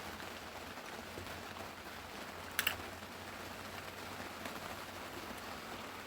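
Steady rain hissing, with one short, sharp clatter about two and a half seconds in.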